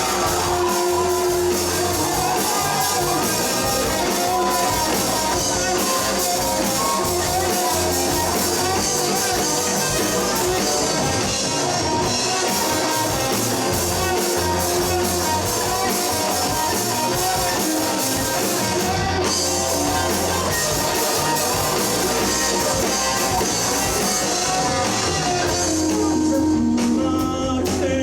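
Live rock band playing at full volume: electric guitars, bass guitar and drum kit. The cymbals thin out near the end.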